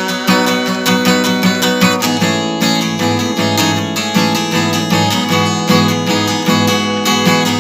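Acoustic guitar strummed in a steady, even rhythm: an instrumental passage of a song, with no singing.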